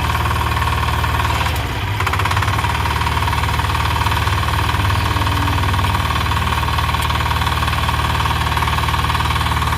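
10 hp Kama single-cylinder diesel engine of a power tiller running steadily, with a brief dip in level about one and a half seconds in before it settles back to an even run.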